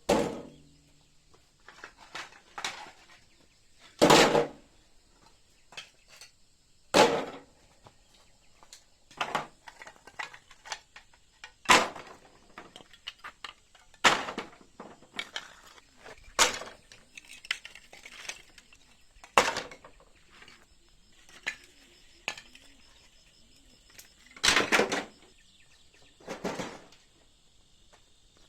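Hard objects clattering and knocking as they are handled and set down, a sharp strike every two or three seconds at uneven intervals, some with a short ringing clink.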